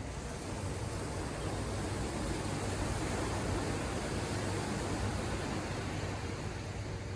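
Ocean surf breaking and washing up the shore, a steady rush that swells towards the middle and eases off again.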